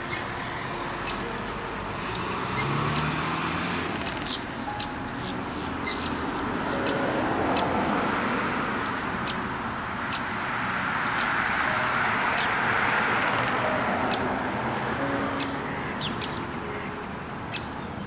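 Outdoor bird ambience: many short, high bird chirps repeat throughout over a steady wash of background noise that swells and fades twice.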